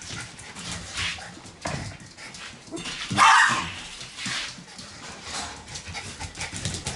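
Shiba Inu puppy giving one loud bark about three seconds in, among scattered softer dog sounds.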